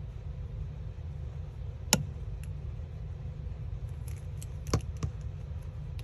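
A few sharp clicks and taps from paper craft pieces being handled and placed on a work surface: one loud click about two seconds in, then a cluster of smaller taps near five seconds, over a steady low hum.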